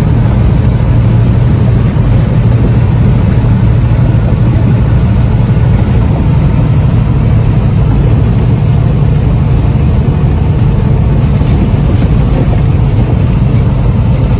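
Heavy truck driving along at a steady pace: a constant low engine drone with road noise, unchanging throughout.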